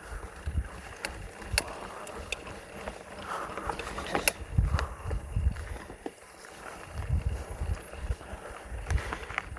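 Polygon mountain bike being ridden over a dry, dusty dirt trail: tyre noise and rumbling over the rough ground, with several sharp clicks and knocks from the bike as it jolts over bumps.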